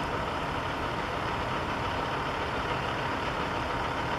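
Steady background engine and traffic noise, even and unbroken, with a faint constant whine.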